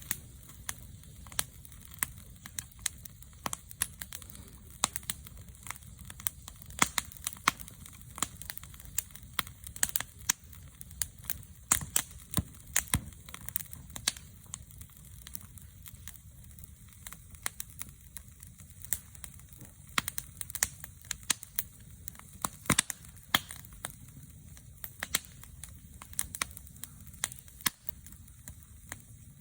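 Wood fire crackling: irregular sharp pops and snaps, many a second, over a low steady rumble.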